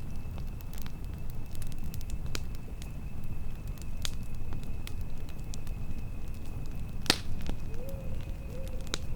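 Wood campfire burning, with a steady low rumble and scattered crackles and pops; one sharp pop stands out about seven seconds in.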